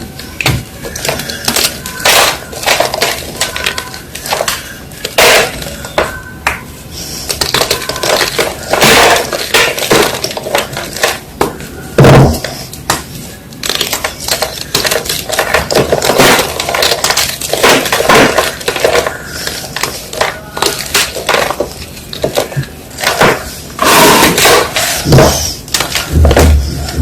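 Blocks of reformed gym chalk being crushed and snapped by hand: an irregular run of dry crunches and cracks, some sharp and loud.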